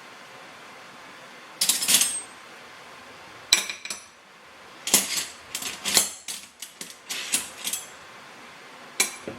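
Dishes and cutlery clinking and clattering: a series of short, sharp knocks and clinks, with a longer scraping clatter about two seconds in and a busy run of clinks near the middle.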